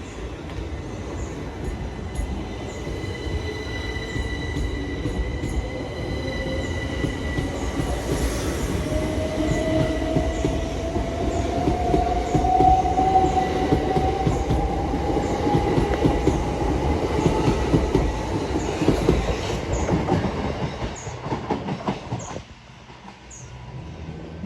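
A train running past on the line: a steady rolling rumble of wheels on rails with a whine that rises in pitch through the middle. It is loudest in the middle and drops off sharply near the end.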